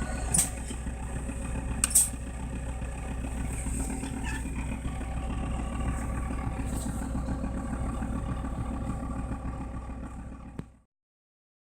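Toyota Land Cruiser HDJ80's 1HD-T turbo-diesel straight-six running steadily just after a −20 °C cold start, with two sharp clicks in the first two seconds. The sound cuts off abruptly near the end.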